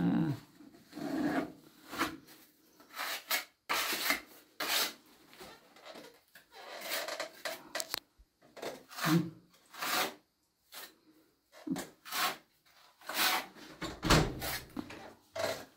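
Irregular scraping and rubbing strokes of a hand tool spreading filler into a crack in a wall.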